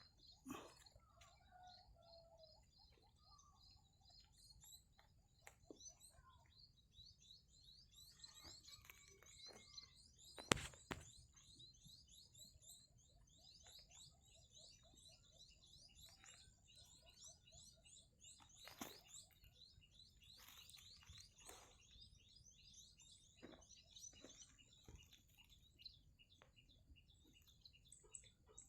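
Faint, repeated high bird chirps throughout, with a few sharp knocks or scrapes; the loudest knock comes about ten seconds in.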